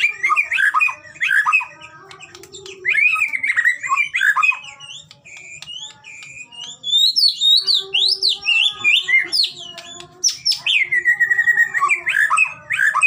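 White-rumped shama singing a loud, varied song of clear whistles, rising and falling glides and rapid harsh chattering phrases, with a short lull about two seconds in and a quieter stretch midway.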